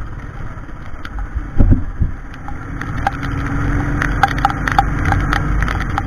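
Royal Enfield Classic 350's single-cylinder engine thumping steadily under way, with wind noise on the microphone. A loud knock comes about a second and a half in, and from about halfway the level rises with a scatter of sharp ticks.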